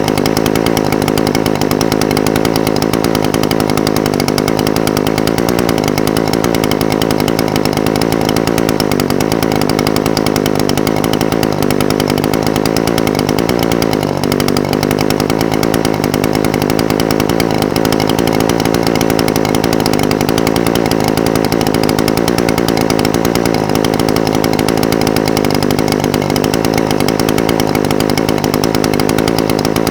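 Echo SRM-420TES brush cutter's small two-stroke engine idling steadily, its pitch wavering slightly now and then.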